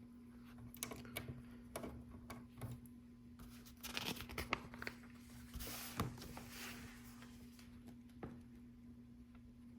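Small plastic LEGO pieces clicking and rattling as they are picked through and handled, with a denser rustle of plastic about halfway through.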